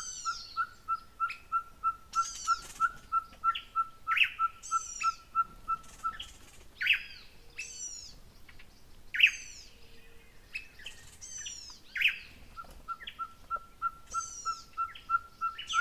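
Wild birds calling. One bird gives a steady series of short, even whistled notes at about three a second, which stops about six seconds in and starts again near the end. Other birds give repeated sharp, falling chirps throughout, loudest about nine and twelve seconds in.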